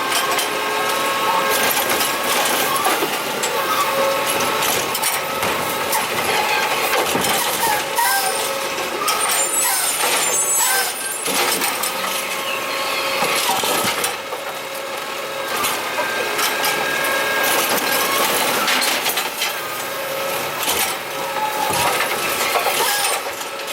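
Curbtender garbage truck working a collection route: engine running with a steady whine of tones and scattered knocks and clatter, broken by short air-brake hisses.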